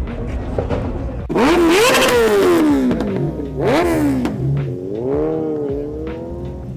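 A car engine revved in two sharp blips, its pitch climbing and falling back each time, then a smaller rise and fall as it settles.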